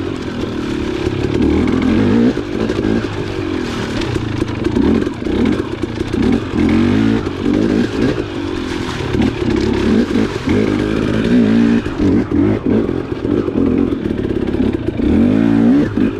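Dirt bike engine revving up and down continually as it is ridden along a trail, with some clatter from the bike.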